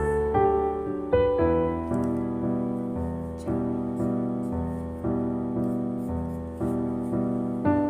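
Background piano music: a slow melody of single notes over sustained chords, each note struck and then fading.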